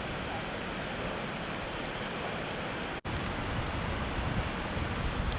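Ocean surf and wind, with wind buffeting the microphone as a steady rumble. The sound drops out for an instant about three seconds in, and the wind rumble is heavier after it.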